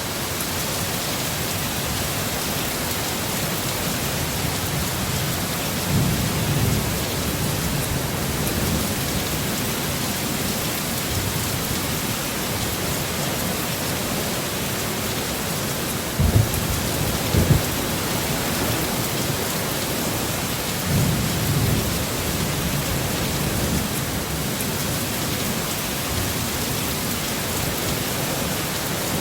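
Heavy storm rain pouring steadily, with low rumbles of thunder swelling a few times and two short low thumps a little over halfway through.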